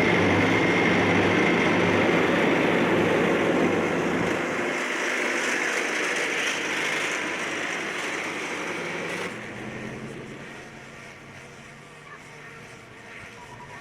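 A large engine running, loud at first, dropping abruptly about four and a half seconds in and again about nine seconds in.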